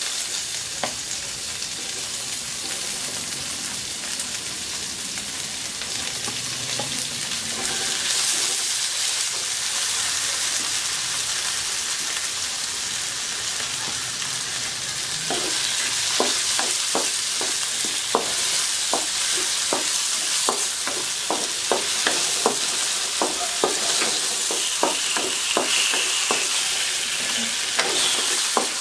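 Tomatoes, onion and garlic sizzling in hot oil in a wok, the sizzle growing louder after several seconds. From about halfway, a wooden spatula stirs the vegetables, with a string of sharp clicks, about two a second, as it knocks the pan.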